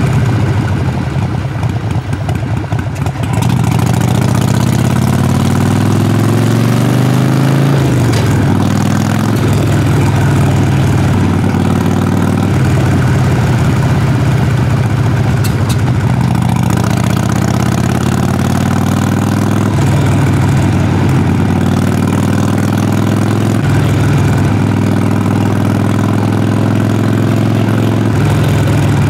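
Harley-Davidson Sportster Forty-Eight's air-cooled V-twin engine heard through its exhaust while riding. The engine runs rough and low for the first few seconds, then its revs climb and drop back several times.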